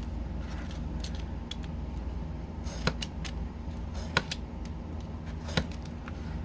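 Light clicks and taps of small wooden craft pieces, popsicle sticks and blocks, being handled and set down on the work surface, with three sharper clicks spaced about a second and a half apart in the second half. A steady low hum runs underneath.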